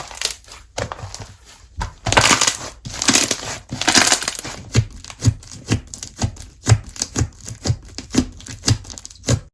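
Slime being squished and worked by hand: a stretch of crackly crinkling, then a run of short pops about two a second as it is pressed and folded.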